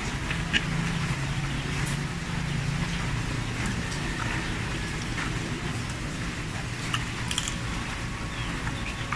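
Chewing and mouth noises of someone eating blood cockles, with a few short sharp clicks, over a steady low hum.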